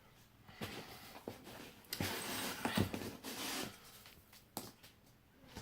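Rustling and scraping of box packing being handled, with a few light knocks; the loudest stretch comes about two seconds in and lasts a second or two.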